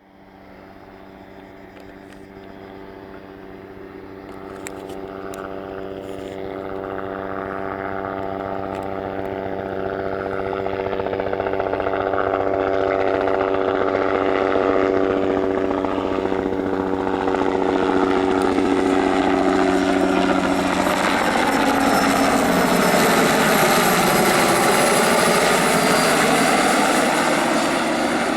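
A Bell 206B-3 JetRanger III helicopter approaching, its two-bladed rotor and turbine growing steadily louder. For about the first twenty seconds it is a steady pitched drone. It then turns into a loud broad rushing sound as the helicopter comes close overhead.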